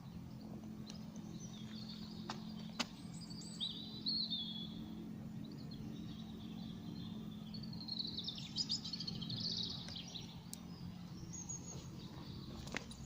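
Small birds chirping and twittering in woodland in two spells, over a steady low hum, with a couple of sharp clicks.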